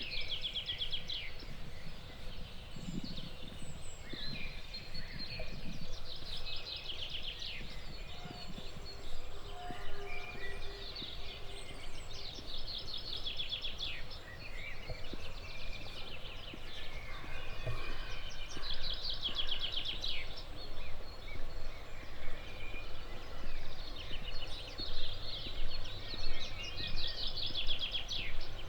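A songbird singing the same fast phrase of rapid high notes over and over, one phrase every few seconds, over a steady outdoor background hiss.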